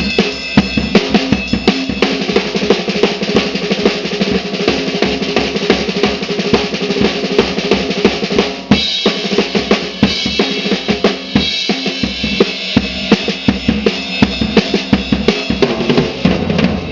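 Slingerland Sound Stage drum kit played in a busy, continuous groove of bass drum and snare hits with cymbals, with a brief break a little past halfway before the beat picks up again.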